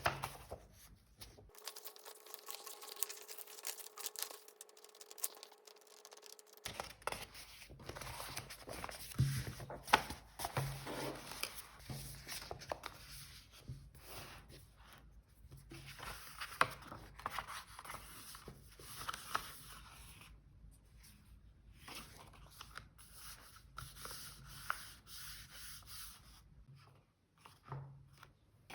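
Paper and stickers being rubbed, scratched and handled during journal decorating, in irregular dry strokes of varying loudness.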